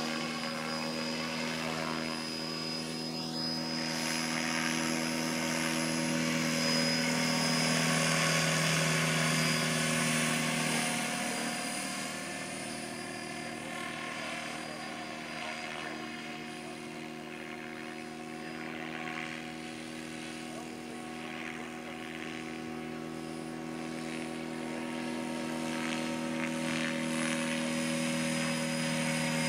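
700-class electric RC helicopter in flight, its main rotor blades and motor giving a steady whirring hum with a buzzing edge. It swells about a quarter of the way in, drops back for a while, and grows louder again near the end.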